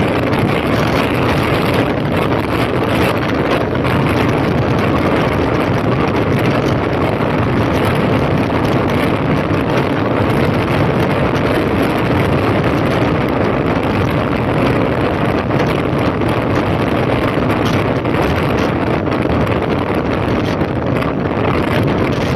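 Honda CB1300's inline-four engine running steadily while riding, mixed with heavy wind rush on the microphone.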